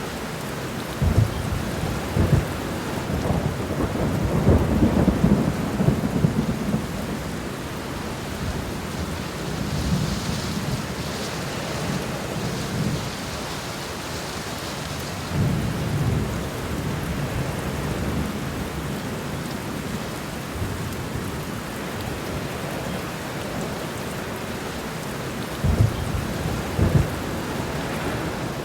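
Steady rain falling, with rolling thunder: low rumbles with sharp cracks, heaviest in the first few seconds, again around the middle and once more near the end.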